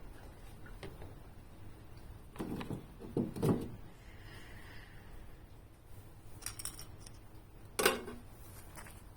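A few knocks and clinks of objects being handled: a short cluster about three seconds in and a sharper, louder knock near the end.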